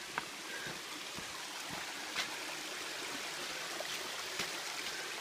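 Steady rushing hiss of a tall waterfall's falling water, with a few faint clicks.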